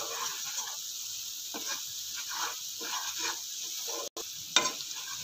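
Ground onion and cashew paste sizzling on low heat in a non-stick frying pan, stirred and scraped with a wooden spatula in repeated strokes. The sound drops out for an instant about four seconds in.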